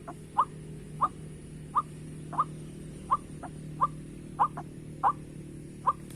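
White-breasted waterhen (ruak-ruak) calling, a steady series of short, quick upward notes about three every two seconds, over a low steady hum.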